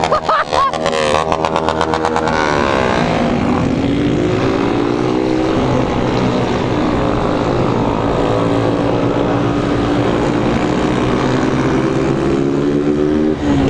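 Single-cylinder Honda 160 motorcycle engine running under way. It rises in pitch from about two and a half to five seconds in, then holds a fairly steady pitch.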